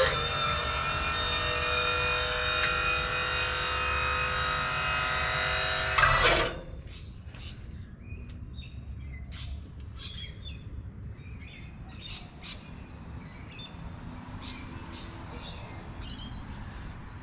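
A loud, steady drone made of several held tones for about six seconds, from an unidentified machine, cutting off suddenly. Then birds chirping, in short calls scattered through the rest.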